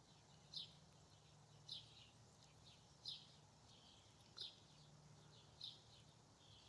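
A small bird chirping, one short high chirp about every second, five times, faint.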